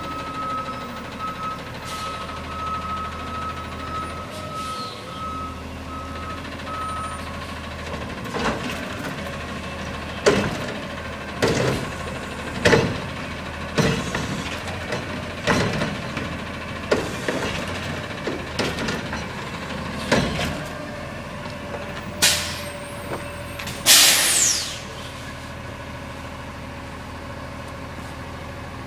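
Garbage truck's reversing alarm beeping, then a run of sharp knocks and bangs about a second apart, then two loud air-brake hisses, after which the truck's engine keeps running steadily.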